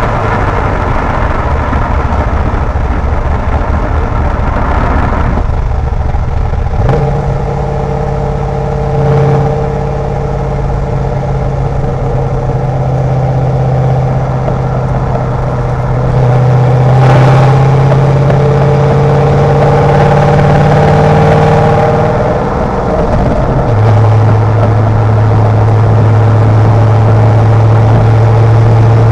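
Twin-turbo Corvette C6 V8 running at a steady cruise, a loud, even drone. Its pitch steps up about a quarter of the way in and drops again near the end, as the speed or gear changes.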